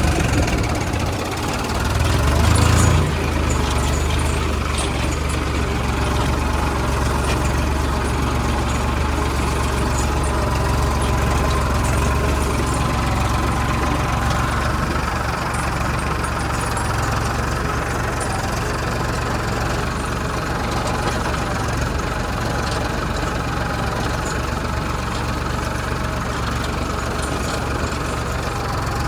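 Farmtrac 60 PowerMaxx tractor's diesel engine running steadily, swelling louder for about a second near the start.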